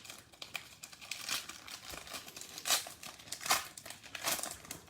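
Plastic trading-card packaging being handled and torn open: irregular crinkling and crackling with several louder tearing bursts.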